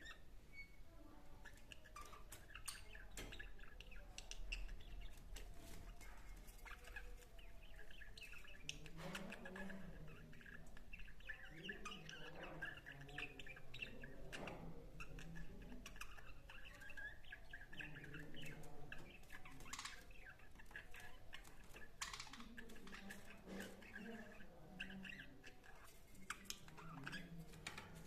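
Budgerigars chattering and warbling continuously, with scattered short chirps and clicks.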